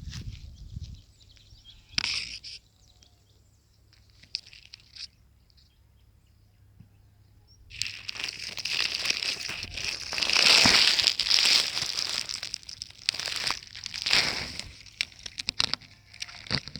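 Crinkling, rustling noise made up of many small crackles: a few scattered bursts at first, then dense and continuous from about eight seconds in, loudest a couple of seconds later.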